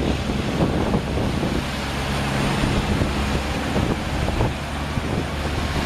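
Semi truck's diesel engine running with a low steady drone as it drives through deep floodwater, with the rush of water and wind noise on the microphone.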